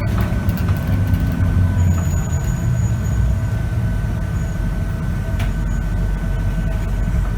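Scania K94UB city bus's diesel engine and ZF automatic gearbox running under way, heard from inside the bus: a dense low rumble, heaviest in the first two seconds, with a steady high-pitched whine held throughout.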